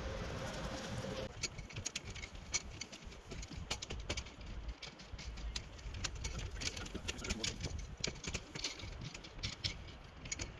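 Bicycle ride: irregular clicks and rattles over a low rumble, starting after a steady hum cuts off about a second in.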